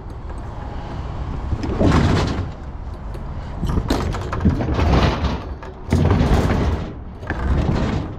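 Heavy metal objects being handled: several thumps and scraping clatters a second or two apart, over a steady low rumble.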